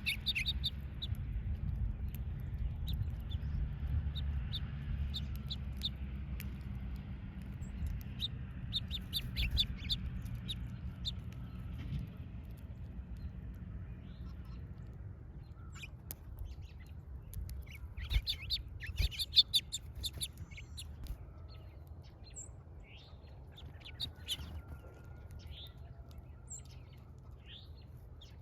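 Birds chirping in quick, short, high calls, coming in bursts, with a few sharp clicks and a low rumble that fades about halfway through.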